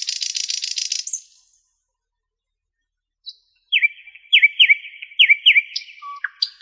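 Songbirds singing: a rapid buzzy trill that stops about a second in, then after a stretch of complete silence a different song of repeated clear notes, each sweeping down, about three a second, with other short calls near the end.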